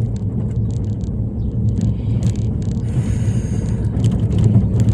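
Steady low rumble of a car driving, heard from inside the cabin, with a few light clicks.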